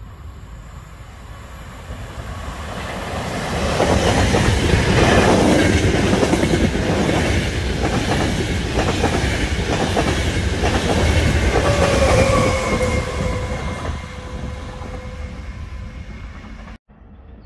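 Trenitalia Intercity train running past along the platform, coming up steadily to a loud pass with repeated clickety-clack of wheels over rail joints. Near the end a drawn-out tone slides down in pitch as it draws away.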